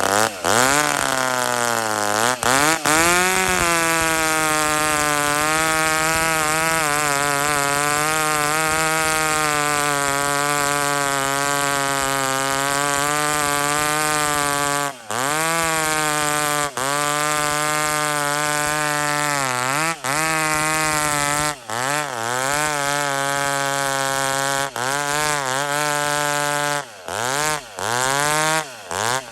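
Ported McCulloch two-stroke chainsaw revving up and held at full throttle, a steady high buzz while bucking a log. In the second half it drops off the throttle and comes back up several times.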